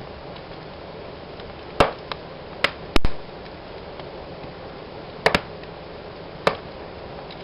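Wood fire burning in a fireplace: a steady hiss with about half a dozen sharp crackles and pops from the burning logs, the loudest a double pop about three seconds in.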